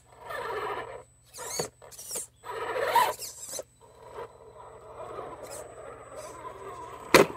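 RC rock crawler's Novak 55-turn brushed motor and gears whining in short bursts of throttle as the truck climbs over rock, with a single sharp knock near the end as a rock slider smacks a rock.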